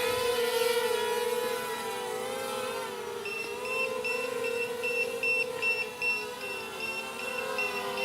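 Diatone Quad 250 quadcopter's brushless motors and propellers whining in flight, the pitch wavering as the throttle shifts. About three seconds in, a high-pitched electronic beeping starts, repeating rapidly.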